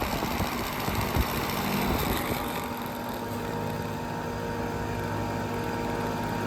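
Outdoor central air-conditioner condensing unit running: the rush of its condenser fan with a steady hum from its Copeland scroll compressor, the hum standing out more clearly from about two seconds in.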